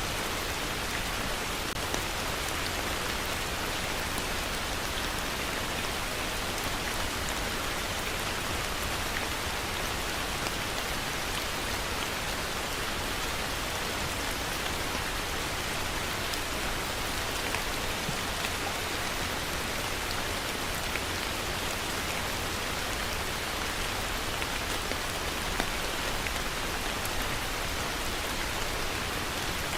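Heavy rain falling steadily: a dense, even hiss with scattered sharper drop ticks and a low rumble underneath.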